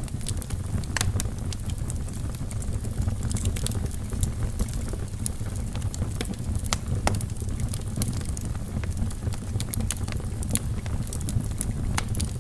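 Wood fire burning in a fireplace: a steady low rumble of flames with frequent irregular sharp crackles and pops of burning logs.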